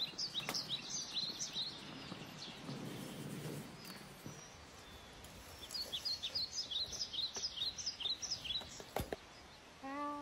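Small birds chirping: two runs of quick, high chirps, one lasting about a second and a half at the start and a longer one from about five and a half seconds in, with a soft low rustle between them.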